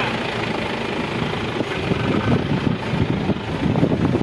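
Heavy construction vehicle running with a low rumble, with wind buffeting the microphone more unevenly from about a second and a half in.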